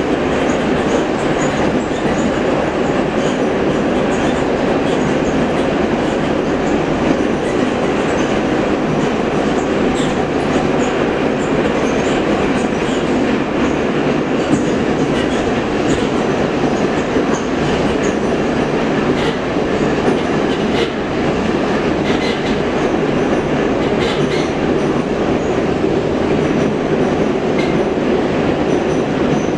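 Metro train running at speed through a tunnel, heard from inside the car: a steady rumble of wheels and motors, with faint clicks now and then.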